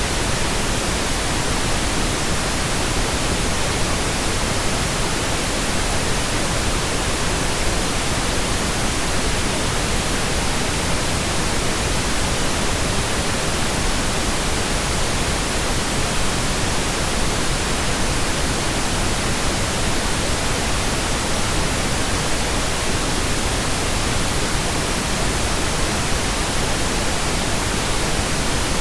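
Steady, unchanging pink noise: an even, computer-generated hiss spread across all pitches, with no events or variation.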